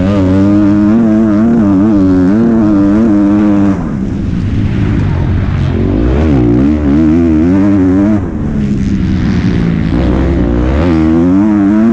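Motocross bike engine heard from an onboard camera, its pitch rising and falling constantly as the throttle is worked. There is a brief drop in loudness about four seconds in, a deep dip and climb in pitch around six to seven seconds, and a short drop again near eight seconds.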